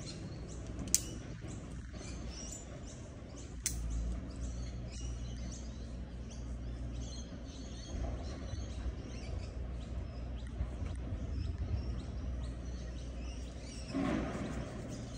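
Birds chirping and calling in the surrounding trees, over a low steady rumble. A sharp click sounds about a second in and another just under four seconds in.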